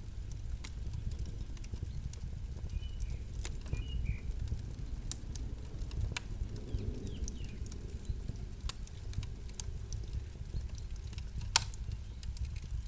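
Campfire crackling: irregular sharp pops and snaps of burning wood over a steady low rumble of the fire, with one loud pop near the end.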